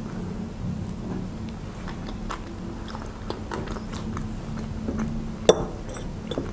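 Close-miked chewing of a soft mouthful of Olivier salad, with small wet mouth clicks over a faint steady low hum. A sharp clink of a metal fork against the bowl comes about five and a half seconds in.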